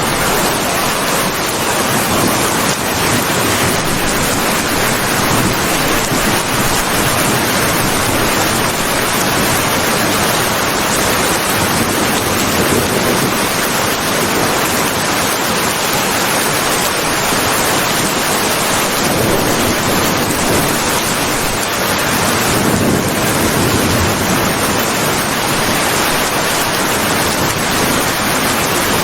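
Rain falling steadily: a dense, even hiss that holds the same level throughout.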